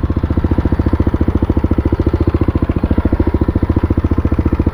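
Kawasaki D-Tracker 250X's single-cylinder four-stroke engine with a Yoshimura slip-on exhaust running steadily at low revs, an even, rapid pulsing beat with no revving.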